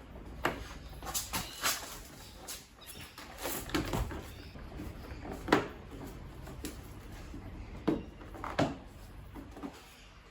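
Irregular knocks and clicks, as of hard objects being handled and set down, at uneven intervals over a low steady background. The sharpest knock comes about five and a half seconds in.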